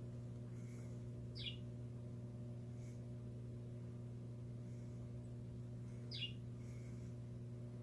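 Pet bird giving two short, high chirps that slide downward, about five seconds apart, over a steady low electrical hum.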